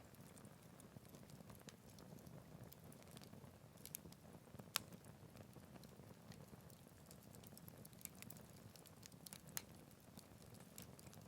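Wood fire burning in a Picogrill 398 fire stand: faint scattered crackles and small pops over a soft low hiss of flame, with a sharper pop about five seconds in and another near the end.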